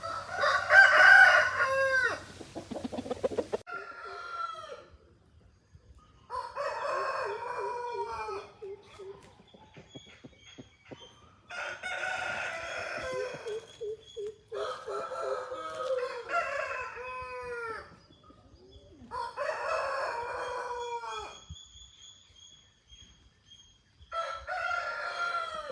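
Aseel roosters crowing in turn, about seven crows in all, with two crows overlapping a little past the middle. The first crow, at the very start, is the loudest.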